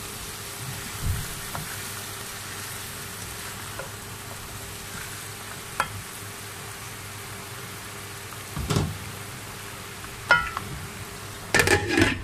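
Okra, tomato and onion frying in oil in a pan, a steady sizzle with a few short knocks and scrapes of a plastic spatula stirring. Near the end a quick cluster of clatters as a glass lid is set on the pan.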